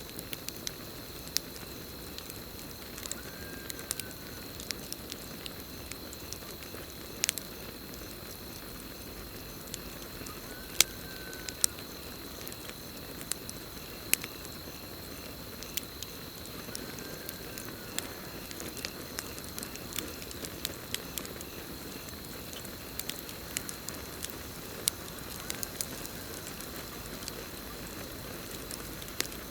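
Campfire burning with irregular sharp crackles and pops over a steady low hiss of flames. Crickets keep up a steady high trill throughout. A short arched call sounds four times, about every seven seconds.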